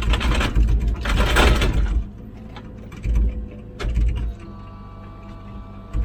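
Komatsu PC16 mini excavator running steadily while digging, with a loud scraping rush in the first two seconds as the bucket works through rocky ground, then a few low thuds.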